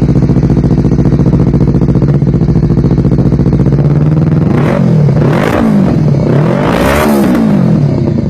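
Honda CBR250RR's parallel-twin engine idling through its stock exhaust, then revved in sport riding mode. About four seconds in come several throttle blips, the pitch rising and falling each time, before it settles back to idle near the end.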